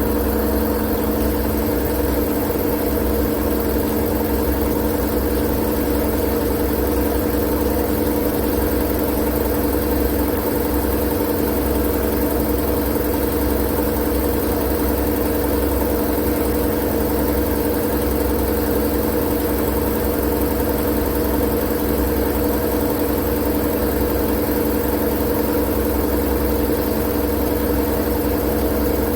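Steady, unchanging machine hum played as white noise: a constant rushing noise with a low rumble and a few steady hum tones, like a motor running at an even speed.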